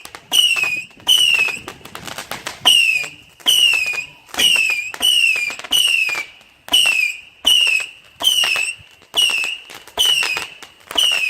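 Firework cake firing a rapid volley of whistling shots, each a sharp crack followed by a short whistle falling in pitch, a little more than one a second.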